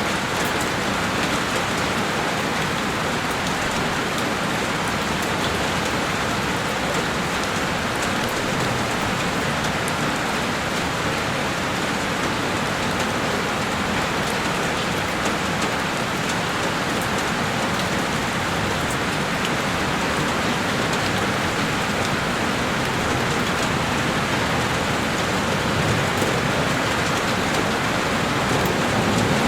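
Heavy rain falling steadily and densely on a window pane, with a faint patter of individual drops.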